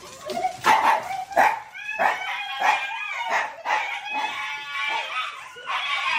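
A dog barking repeatedly in short, sharp barks, several in quick succession.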